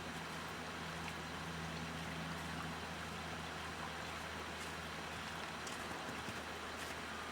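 Steady rushing of a flowing stream, with a low steady hum underneath, part of which stops about three seconds in.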